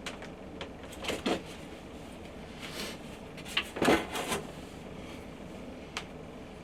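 Pine cladding boards being handled and fitted into place: scattered wooden knocks and scrapes, a cluster about a second in and a louder one about four seconds in, then a single sharp click.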